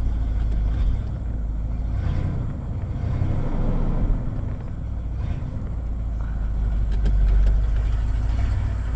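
A 1980 Ford F100's 302 V8 with a two-barrel carburetor idling cold just after an extreme cold start, running steadily with gentle swells and dips in level; the engine has not yet warmed up.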